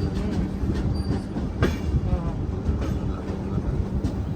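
Indian Railways LHB passenger coach running on the rails, heard from aboard: a steady rumble with a low hum and a single sharp click about a second and a half in.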